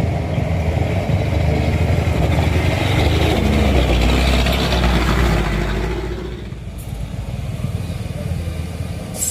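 A motor vehicle's engine working hard as it pulls up a steep grade, growing louder through the middle and dropping away about six seconds in. A short sharp click comes near the end.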